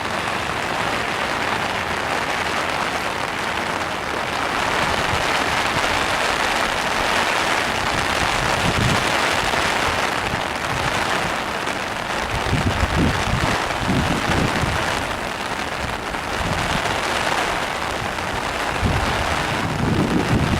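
Floodwater rushing in a swollen creek, a loud, steady hiss, with low rumbles a little past the middle and again near the end.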